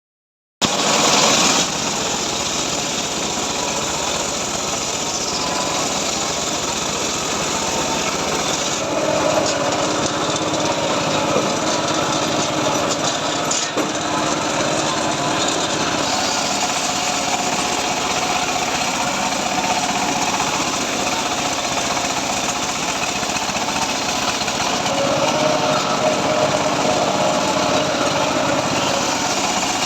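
Homemade circular saw running and cutting teak wood: a steady, loud, noisy machine sound whose tone shifts as the blade takes load, about nine seconds in and again near the end.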